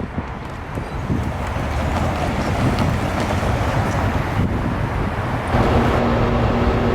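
Passing train rumbling, with wind buffeting the microphone; about five and a half seconds in a steady pitched tone joins and holds.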